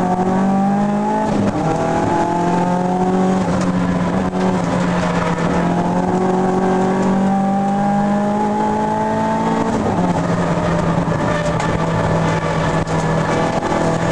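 Race car engine at full throttle, heard from inside the cabin. Its pitch climbs slowly as the car pulls down a straight, dropping sharply about a second and a half in and dropping again about ten seconds in.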